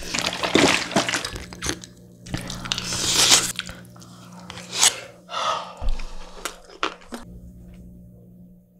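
Close-miked chewing and crunching of a mouthful of doenjang and young radish (yeolmu) rice bowl, in irregular bursts with a few sharp crunches. It dies away about seven seconds in.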